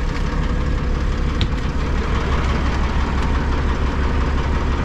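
Diesel semi truck engine idling steadily with a low, even rumble.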